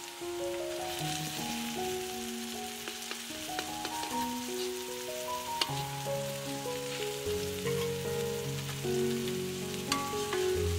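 Egg omelette with vegetables frying in oil in a steel wok, a steady sizzle with a few sharp scrapes and taps of a metal spatula on the pan. Background music of held notes plays under it.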